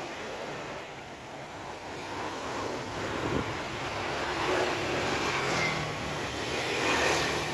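Outdoor street noise with a passing vehicle, its sound swelling over several seconds before easing off near the end.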